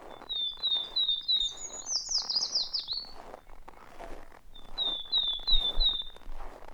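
A songbird singing two phrases of repeated down-slurred whistled notes, the first ending in a higher, rapid flourish. Under it, a steady crunch of footsteps walking in snow, about three steps every two seconds.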